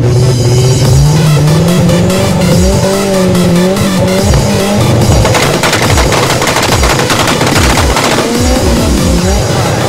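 Drag car's engine revving hard, heard from inside the car. From about halfway in, a rapid string of sharp bangs and pops cuts through the engine note.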